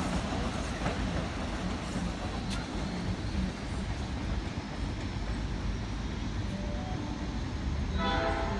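Train running through the station with a steady low rumble. A pitched sound comes in near the end.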